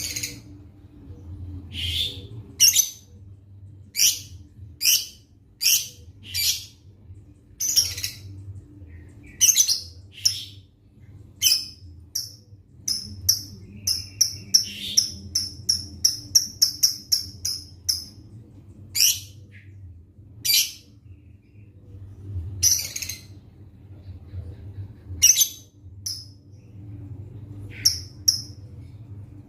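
Lovebird giving sharp, high, shrill chirps, one about every second, breaking into a fast run of short chirps in the middle. A faint steady low hum lies underneath.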